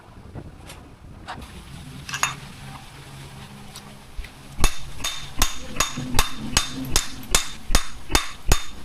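Hammer blows: a few scattered taps, then from about halfway in a steady run of sharp strikes, about two and a half a second.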